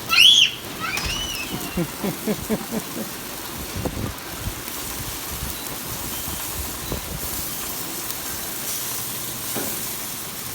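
Steady rain falling as an even hiss during a thunderstorm, with a few short high squeaks in the first second.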